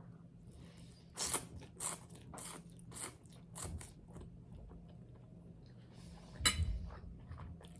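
Close-miked chewing of crunchy garlic bread: a run of crisp crunches about every half second, the loudest one about six and a half seconds in.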